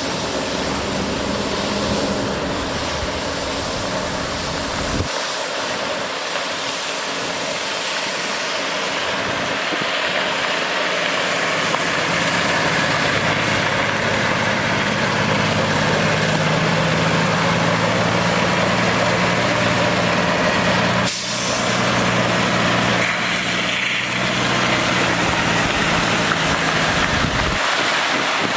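Cummins ISL diesel engine of a Freightliner water truck running, its note growing louder and stronger about twelve seconds in, with a steady rushing hiss over it.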